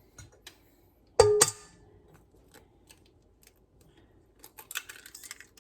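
Eggs being cracked into a mixing bowl. An egg knocks sharply against the bowl about a second in, with a short ringing clang. Near the end comes a quick cluster of small crackly clicks.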